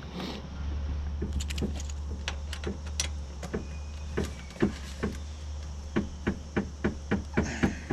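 Irregular sharp clicks and knocks of metal tools and fittings being handled, as a small flare fitting on a mini split's line set is worked by hand, over a steady low hum.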